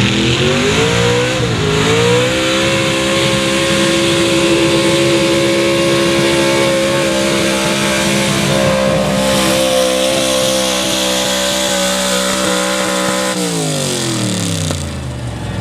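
Pulling truck's engine revving up as it launches the sled, held at high, steady revs for about ten seconds down the track, then dropping off near the end as the driver lets off at the end of the pull.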